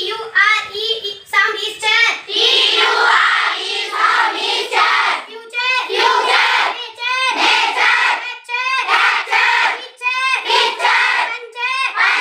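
A child's voice chanting phonics sounds in a sing-song rhythm, short repeated syllables like "tion" (shun) and "ture" (cher).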